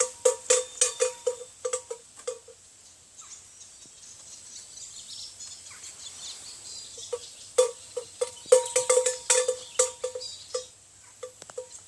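Metal livestock bells clanking irregularly as the animals move. The bells ring in busy clusters in the first couple of seconds and again from about seven to ten and a half seconds in, with a quieter stretch between.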